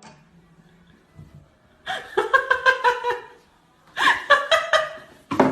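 A person laughing in two bouts of quick, chopped laughs, the first about two seconds in and the second about four seconds in, with a third just starting near the end.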